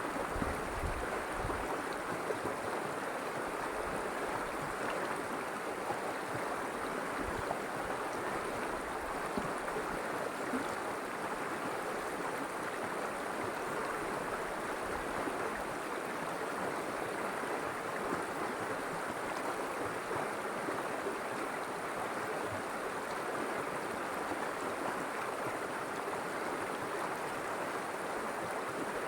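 River water flowing steadily, a continuous rushing and gurgling, with some low rumble in the first few seconds.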